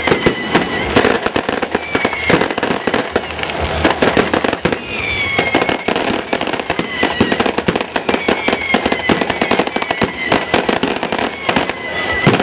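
Fireworks going off in a dense, continuous barrage of rapid cracks and bangs, with short falling whistles every second or two.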